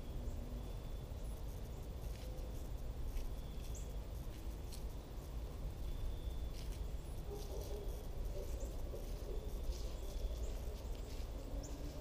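Small birds giving scattered short, high chirps and chips, over a steady low outdoor rumble.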